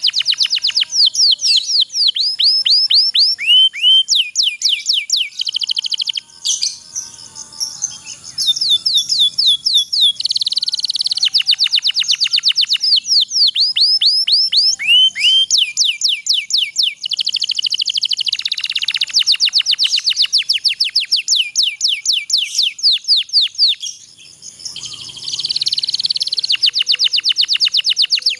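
Domestic canary singing a long song made of trills (rolls): phrase after phrase of fast, repeated sweeping notes, high-pitched, with the note type changing from one phrase to the next.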